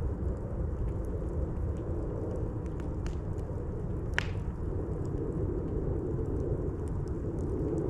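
Campfire burning: a steady low rumble of the fire with scattered faint crackles and one sharper pop about four seconds in.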